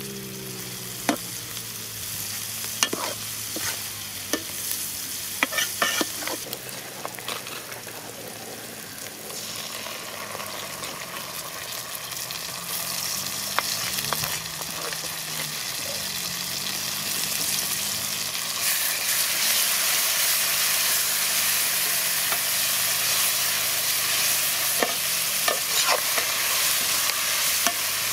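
Sliced onions and green chillies frying in a large metal pot, with a perforated metal ladle knocking against the pot as they are stirred. The frying sizzle grows louder in the second half.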